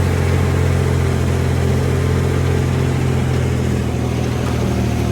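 Heavy diesel engine of earthmoving machinery running steadily at a constant note, a bulldozer or dump truck working the fill.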